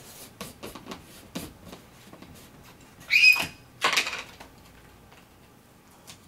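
A parrot gives a short, loud, harsh call about three seconds in, followed by a second, noisier burst a moment later; a few light clicks and taps come before it.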